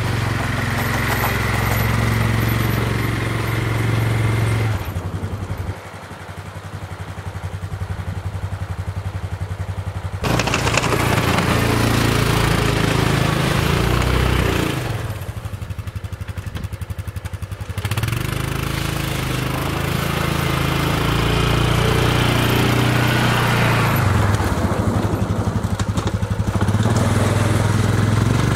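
A motor vehicle's engine running steadily, its sound changing abruptly several times.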